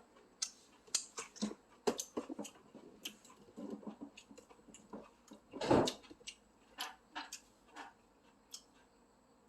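Scattered light clicks and knocks of tableware and food containers being handled at a table, with one louder knock a little after halfway.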